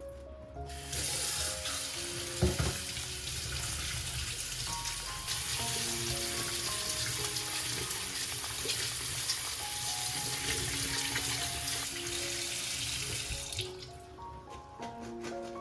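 Water running from a tap into a sink. It starts about a second in and stops near the end, with a single knock about two and a half seconds in.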